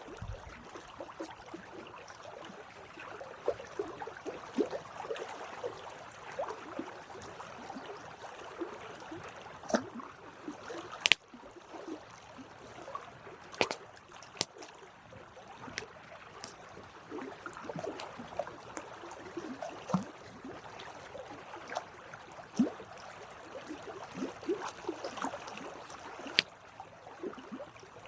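Campfire burning: a steady hiss of flames with frequent irregular crackles and sharp pops, the loudest pop about eleven seconds in.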